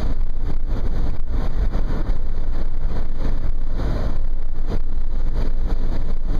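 Loud, steady wind noise rushing in through the open sunroof of a 2010 Nissan Murano cruising at about 50 mph.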